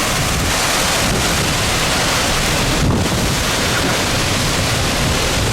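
Severe rear-flank downdraft wind gusts, estimated at over 80 mph, blowing hard over the microphone in a loud, steady rush, with a brief dip just before halfway.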